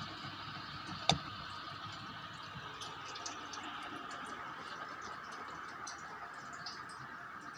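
Sanex 56-inch industrial ceiling fan running with a steady whir and a faint high hum, with scattered light ticks and one sharp click about a second in.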